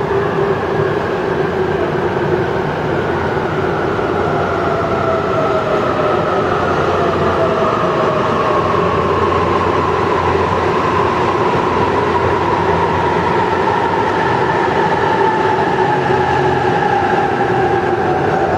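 E259 series electric multiple unit pulling into an underground station platform: a steady rumble of wheels on rail, with a motor whine that falls slowly in pitch as the train brakes.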